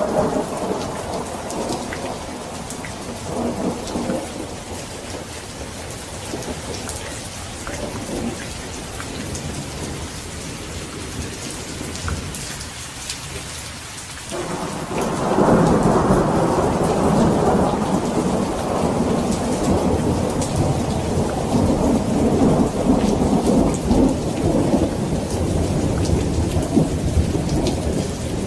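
Steady rain with rolling thunder. The rumble fades over the first few seconds and nearly dies out, then a new, louder peal of thunder breaks in about halfway through and keeps rumbling to the end.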